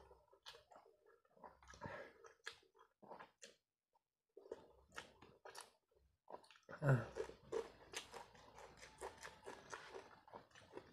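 A person chewing food eaten by hand, with lip smacks: faint, irregular wet clicks and smacks that come thicker and louder from about seven seconds in.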